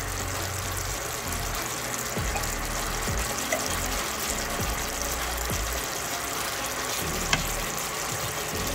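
Banana pieces sizzling steadily as they fry in bubbling butter and brown sugar, with one small sharp click about seven seconds in.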